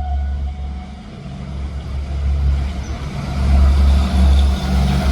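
Diesel engine of a railway OHE inspection car running with a deep steady hum, growing louder from about three seconds in as it approaches. A horn note fades out at the very start.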